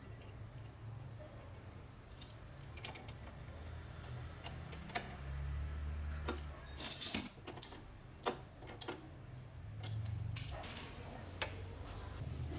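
Light, irregular clicks and taps of small metal carburetor parts being handled on a work surface, with a short scratchy burst about seven seconds in.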